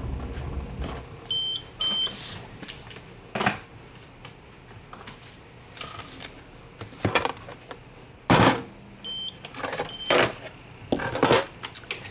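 Short electronic beeps: a pair a little over a second in and another pair about nine seconds in. Between them are scattered clicks and knocks of small objects being handled, the loudest a sharp knock just before the second pair.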